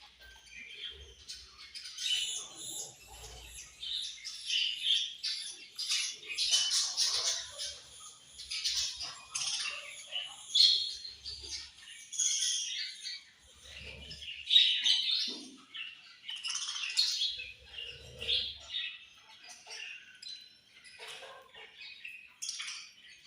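A flock of budgerigars chirping and warbling together in a continuous chatter of rapid high chirps.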